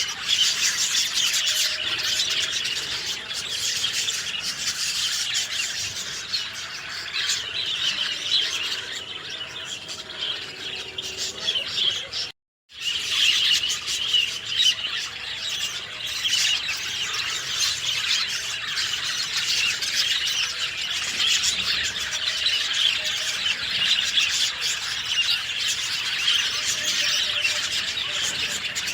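Dense chorus of many small birds chirping and twittering together without pause. It drops out to silence for a split second about halfway through.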